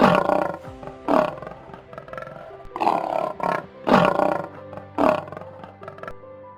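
Lion roaring in a series of about five loud calls, each roughly a second apart, over background music.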